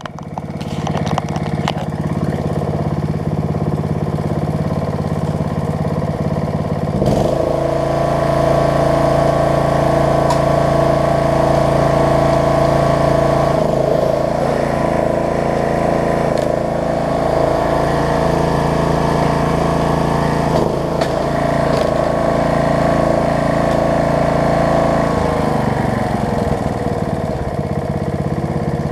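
Snapper rear-engine riding mower's engine running at a low speed, then throttled up about seven seconds in and held there while the mower is driven. It dips briefly twice along the way, then slows back down near the end.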